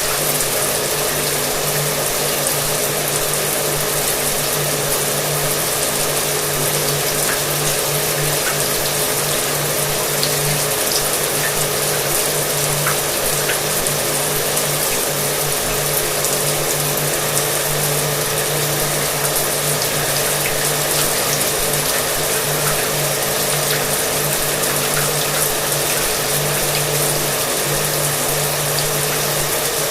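Shower water running in a steady hiss, with a hair dryer running continuously underneath as a steady motor hum.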